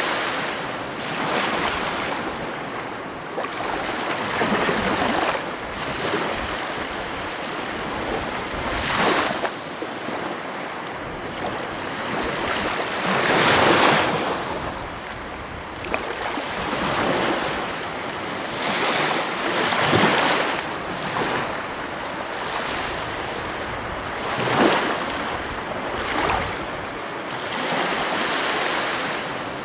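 Heavy ocean surf breaking on the shore, a steady wash of water that swells as each wave crashes, several times, the loudest about halfway through. Some wind noise on the microphone.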